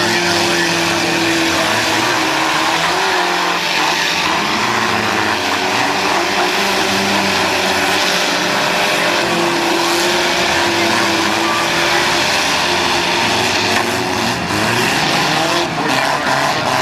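Several demolition derby cars' V8 engines running hard and revving, with tyres spinning on the dirt. A few sharp knocks come near the end.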